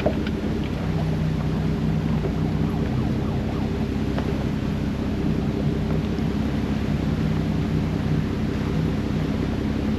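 Jeep engine running steadily at low speed on a trail, with scattered light ticks and clicks over it.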